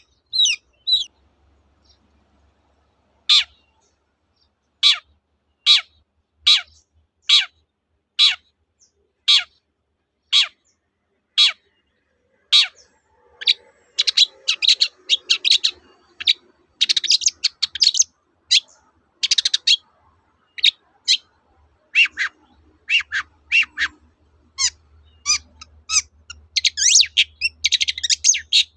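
Long-tailed shrike singing: after a short pause, a run of single down-slurred call notes coming a little under one per second, then fast, scratchy chattering song about halfway through, with more single notes and dense bursts toward the end.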